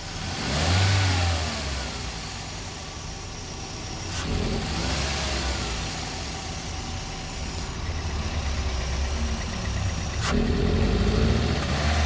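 Toyota Vios four-cylinder petrol engine revved three times, each rev rising and falling in pitch, with a sharp click just before the second and third. It is being revved to find a shudder on sudden acceleration that the owner likens to the engine 'drowning'.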